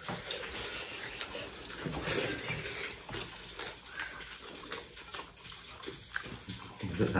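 Wet chewing and mouth sounds of people eating rice, dal and chicken curry with their hands, along with the squelch of fingers mixing the food on steel plates.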